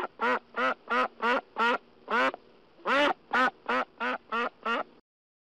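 Duck quacking: a rapid run of loud quacks, about three a second, with a short break about two seconds in, then another run that stops about five seconds in.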